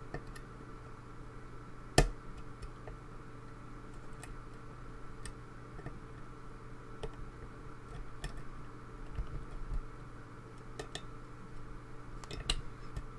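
Scattered small metallic ticks and clicks of a hook pick working the pins of a pin-tumbler lock held under tension in a false set, with one sharper click about two seconds in, over a faint steady hum.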